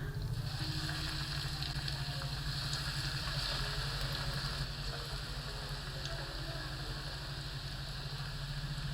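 Breadcrumb-coated potato bites deep-frying in hot oil, a steady crackling sizzle over a low, even hum.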